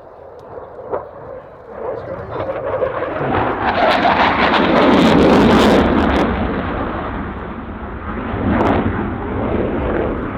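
Dassault Rafale fighter's twin M88 jet engines rumbling loudly as it passes. The noise builds to a peak about five seconds in, eases, then swells again near the end.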